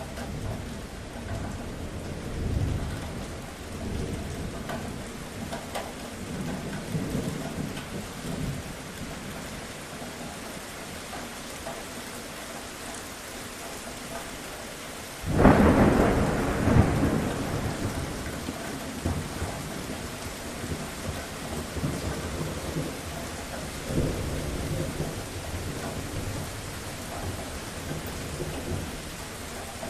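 Steady rain with rolling thunder. Low rumbles come and go early on, a loud thunderclap breaks about halfway through and rolls away over a few seconds, and a softer rumble follows later.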